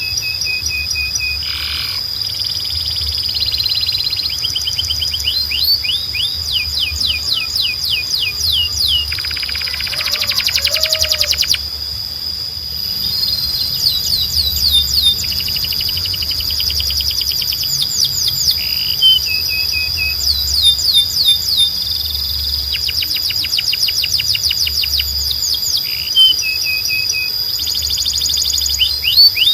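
Domestic canary singing: long runs of fast, evenly repeated trill notes, with a buzzy rolled passage about ten seconds in. A steady high tone runs underneath.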